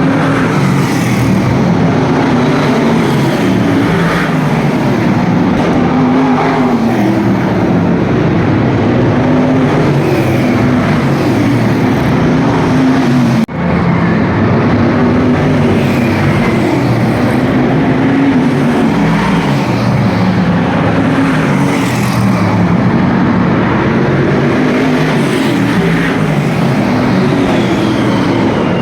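Several V8 stock car engines racing together, revving up and easing off as the cars circle, with one short break about halfway through.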